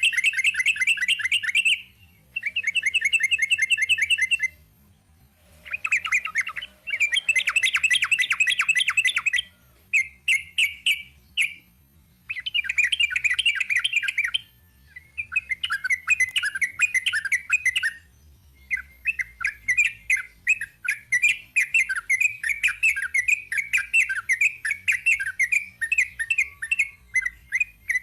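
Yellow-vented bulbul (trucuk) singing its long rapid-fire song: dense runs of quick chattering notes in bursts of a few seconds with short pauses between, then one unbroken run through the last third.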